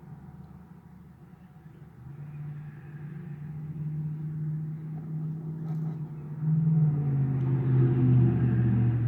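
A low motor hum that grows steadily louder over several seconds, reaching its loudest and dropping slightly in pitch about seven seconds in.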